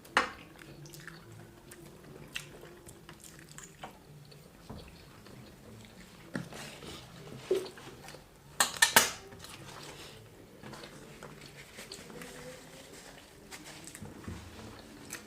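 Eating sounds: chewing and biting, with cutlery knocking and scraping on a dish. A short cluster of louder sharp clicks comes about nine seconds in.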